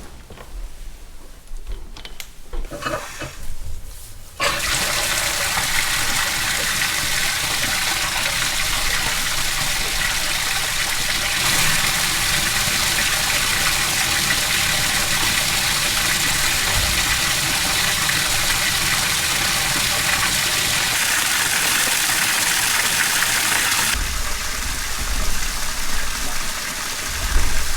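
Water gushing steadily into a cattle water trough as it is filled, starting suddenly about four seconds in and turning duller near the end.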